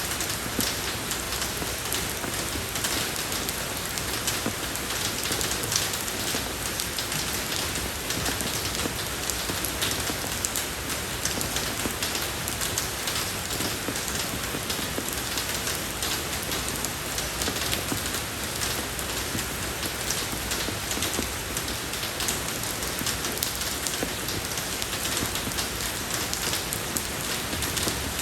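Steady rain falling on a road surface: a dense, even hiss of drops with fine patter throughout.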